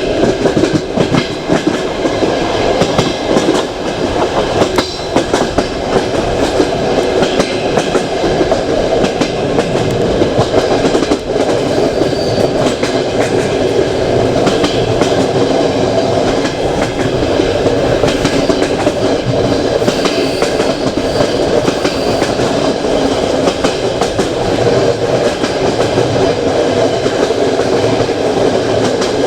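Passenger train carriage running at speed: a steady rumble of wheels on the rails with a constant scatter of clicks and knocks from the rail joints and running gear.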